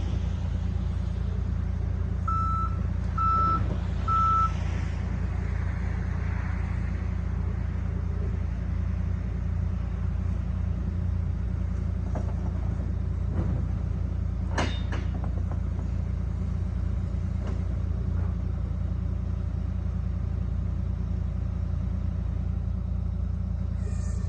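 Backhoe loader's diesel engine running steadily, with three short beeps of its reversing alarm a couple of seconds in and a single sharp knock about halfway through.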